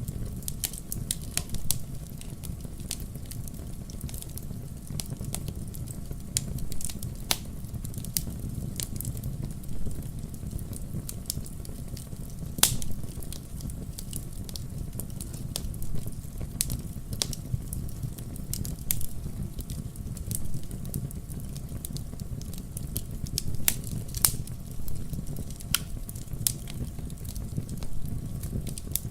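Campfire crackling: irregular sharp pops and snaps, a few louder ones standing out, over a steady low rumble of burning.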